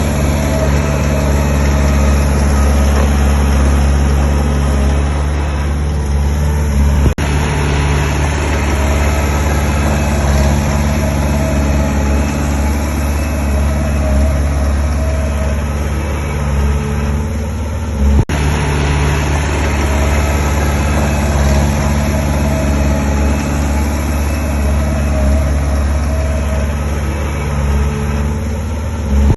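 Heavy diesel engine of an earthmoving machine running steadily at a low, even pitch, with two brief breaks in the sound.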